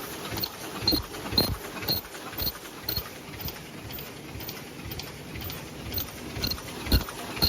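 High-speed paper cup making machine running, a rhythmic mechanical clatter of about two cycles a second, with a heavier knock near the end.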